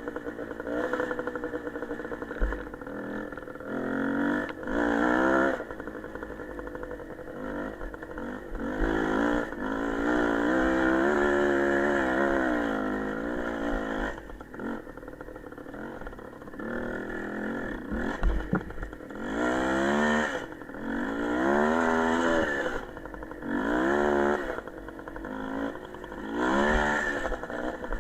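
Small motorcycle engine being ridden, revving up and dropping back again and again, its pitch rising with each burst of throttle and falling as it eases off.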